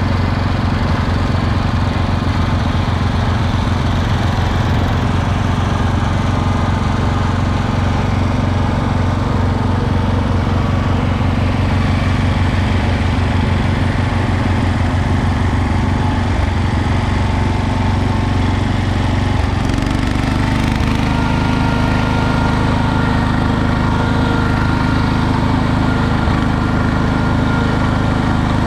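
Small garden tractor engine running steadily and close by, its note changing about two-thirds of the way through.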